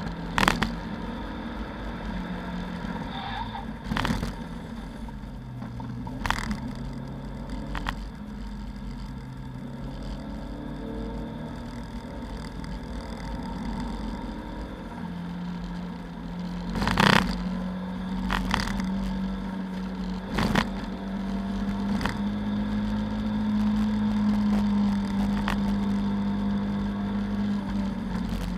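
Inside the cabin of a Lada 2109 race car at speed: the four-cylinder engine runs hard, its pitch shifting through the first half and then holding a long, slowly rising note for the last dozen seconds. Sharp knocks cut through it several times.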